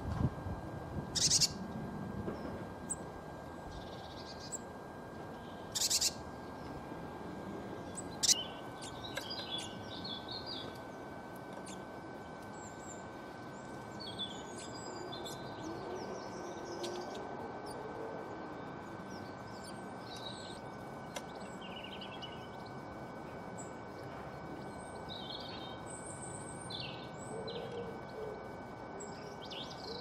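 Small garden birds chirping: a few short, loud high chirps in the first eight seconds or so, then fainter scattered chirps and calls.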